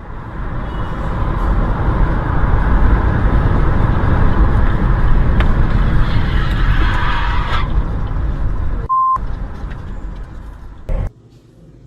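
Car on the move: a loud, steady rumble of road and wind noise, with a short high beep about nine seconds in. The noise cuts off abruptly near the end.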